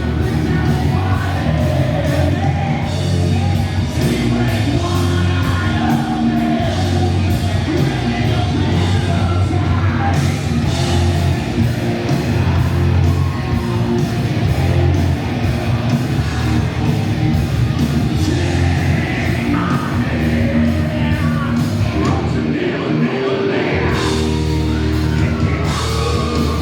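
Classic rock tribute band playing live with a lead singer: rock music with steady drums, bass and guitars under the vocals.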